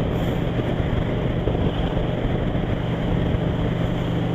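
Motorcycle engine running steadily at cruising speed, with constant wind and road noise.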